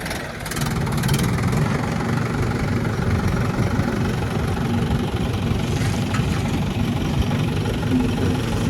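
Heavy diesel engine of a backhoe loader or tractor running steadily with a low rumble, a little louder from about half a second in.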